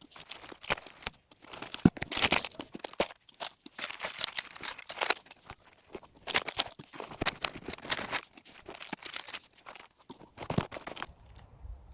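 Dry, dead strawberry leaves crackling and tearing as they are pulled away, in quick, irregular bursts of rustling.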